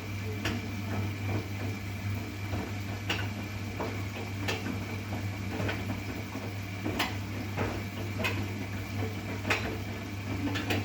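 Bosch WGA 2520TR front-loading washing machine running mid-cycle with a lot of water in the drum: a steady motor hum and a faint steady whine, with irregular light clicks and knocks every second or so.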